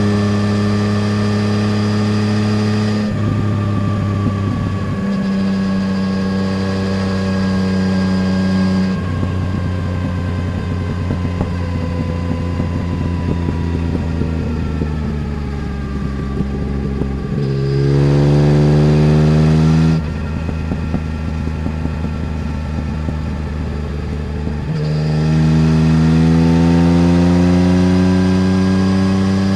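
A Yamaha Tracer 900 GT's three-cylinder engine through a full Roads Italia aftermarket exhaust, heard while riding. It runs on a part or closed throttle with a rough crackle through the middle, then pulls hard, rising in pitch, about two-thirds of the way in. After a sudden gear change it pulls again, rising near the end.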